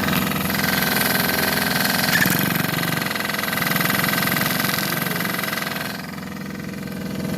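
Small dirt bike engine idling steadily, dipping slightly quieter about six seconds in.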